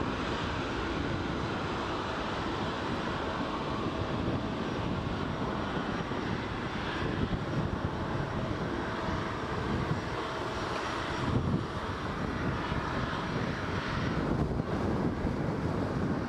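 Jet airliner engines running steadily, a continuous rushing noise, with gusty wind buffeting the microphone underneath.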